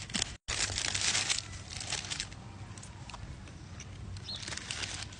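Paper food wrapping crinkling and rustling, loudest in a burst of about a second near the start, then lighter scattered crackles.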